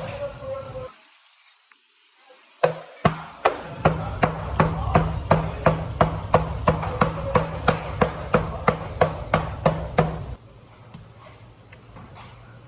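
A steady run of sharp knocks on a hard surface, about three a second, with a low hum under them; both stop together about three-quarters of the way through.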